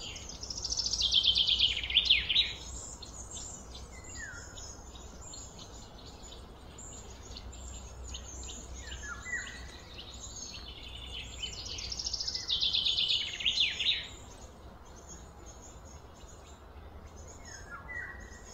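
Birds singing. A loud song of rapid notes sweeping downward in pitch comes twice, near the start and about twelve seconds in. Short falling chirps and other high calls keep up in between.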